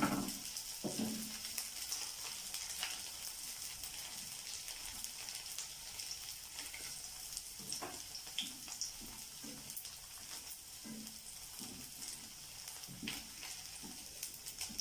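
Flour-coated cauliflower florets sizzling steadily in shallow oil in a pan, frying golden and crisp, with light scattered taps and scrapes of a wooden spatula turning the pieces.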